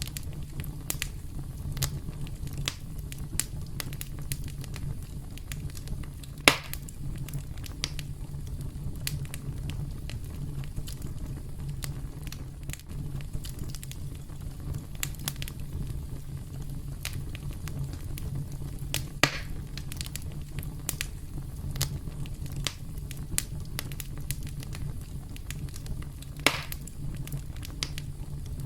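Campfire burning, with a steady low rumble and frequent small crackles, and three louder pops, near 6 s, 19 s and 26 s in.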